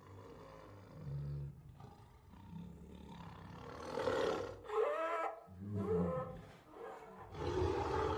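Tiger roaring: a few quieter low calls, then several louder roars about a second apart from about halfway through.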